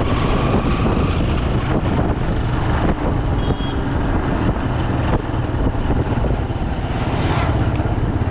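Bajaj Pulsar 200 motorcycle's single-cylinder four-stroke engine running steadily while being ridden, with street traffic around it.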